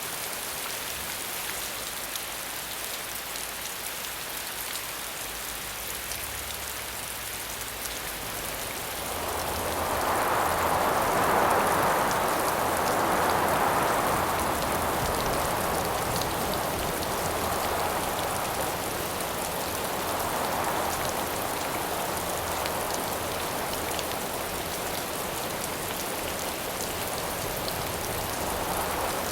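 Steady rain hiss. About nine seconds in, gusts of wind start to swell and fade over it several times.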